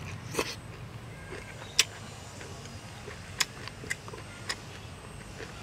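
Eating sounds: a man chewing cooked collard greens with his mouth close to the microphone, with about five sharp smacks or clicks spread irregularly over the few seconds.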